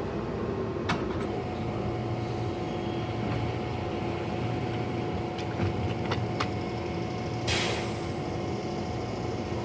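Washington Metrorail Red Line train standing at the platform with a steady hum. A sharp click about a second in, a few lighter clicks around the middle, and a short hiss about seven and a half seconds in.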